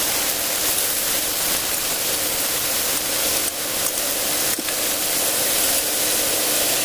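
Chicken strips sizzling steadily in hot olive oil in a skillet on medium-high heat, with a couple of faint knocks midway.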